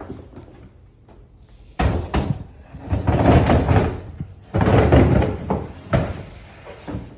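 Gear being loaded into a pickup truck bed: a sudden thud about two seconds in, then two stretches of scraping and clattering, with a couple of sharper knocks near the end.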